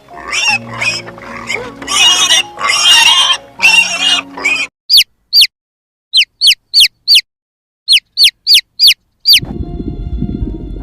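Loud animal calls over background music, then about a dozen short, high chirps, each falling in pitch, with silence between them. Near the end a low rumbling noise with steady tones comes in.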